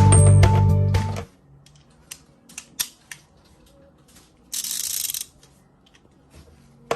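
Background music cuts off about a second in, followed by scattered light clicks and clinks of a socket tool kit's metal pieces being handled. A brief hiss of about half a second comes in the middle.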